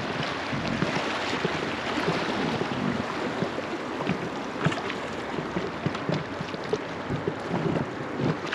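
River water rushing and lapping against the sides of a drifting raft, with frequent small irregular splashes.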